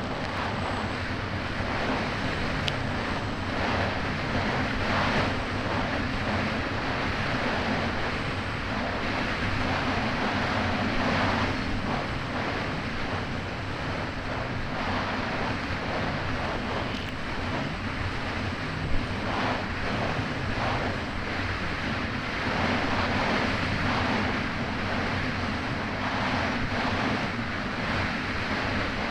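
Kawasaki Ultra 300X jet ski's supercharged four-cylinder engine running steadily under way through choppy water, with rushing spray and splashes and wind buffeting the microphone. A single sharp knock about two-thirds of the way through.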